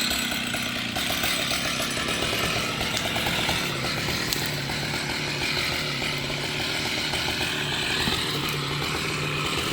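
Two-stroke chainsaw running steadily, its pitch wavering slightly, with a brief dip in loudness about a second in.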